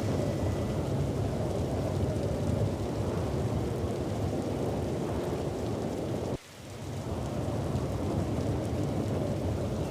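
Thunderstorm noise: a heavy, continuous low rumble with a rain-like hiss over it. It cuts out suddenly about six seconds in and swells back over the following second.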